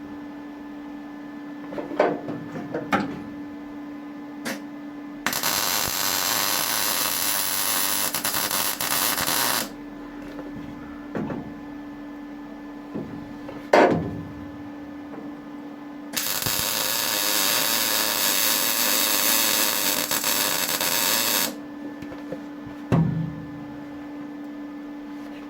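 Welder laying welds on the car's front cross member repair, two runs of steady hiss of about four and five seconds, each starting and stopping abruptly. A steady hum runs underneath, with a few sharp knocks between the runs.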